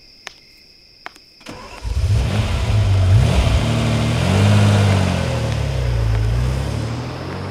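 A sports car's engine cranks and starts about one and a half seconds in, after two short clicks, then revs up and down, its pitch climbing again near the end.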